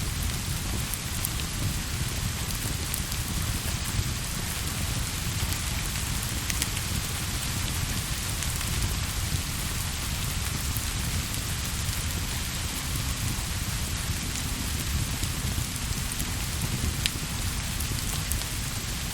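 Steady, even rain, with a low rumble underneath and a few scattered light ticks.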